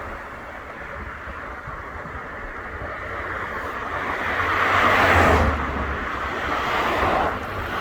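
Wind rumbling on the microphone and road noise while riding an electric scooter along a street. The noise grows to a peak about five seconds in and then eases off.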